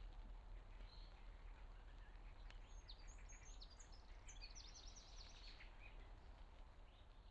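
Faint bird chirping: a quick run of short, high chirps from about two and a half to five and a half seconds in, over a low steady rumble.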